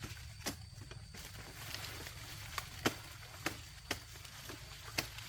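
Dry sugarcane stalks and leaves rustling and crackling as the cane is cut and handled, with about six sharp snaps at irregular intervals.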